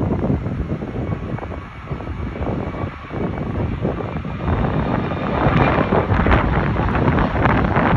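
Airbus A330-300 airliner's jet engines rumbling as it lands in a crosswind, with wind buffeting the microphone; the gusts get louder and harsher about halfway through.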